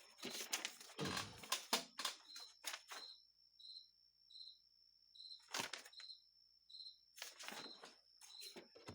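Clicks and rustles of small carburetor parts being handled on a workbench, in bursts during the first three seconds, once in the middle and again near the end. Behind them a cricket chirps steadily, about three chirps every two seconds, over a faint steady high tone.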